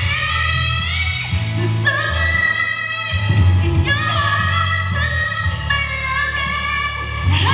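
A woman singing a pop song, holding and sliding between notes, over a backing track with a deep bass line.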